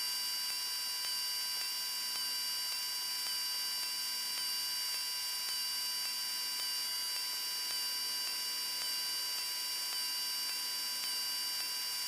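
Steady in-flight drone of a Cessna 172M in cruise, heard as an even hiss with several high steady whining tones and little low rumble.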